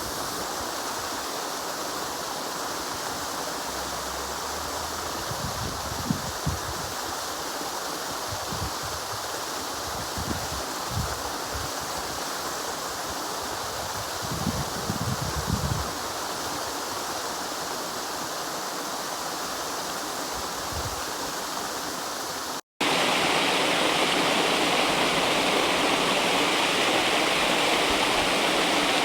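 River water rushing and flowing steadily, with occasional low buffets of wind on the microphone in the first half. About 23 s in the sound cuts out for an instant and comes back louder and brighter, a faster-rushing stretch of the river.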